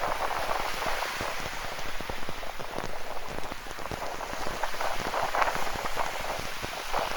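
Steady rain falling, a dense patter of many individual drops.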